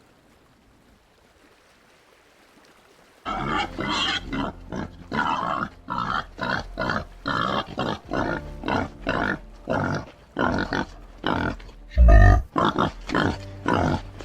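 White-lipped peccary giving a rapid series of grunting calls, about two a second, starting about three seconds in after a quiet start. There is one loud low thump near the end.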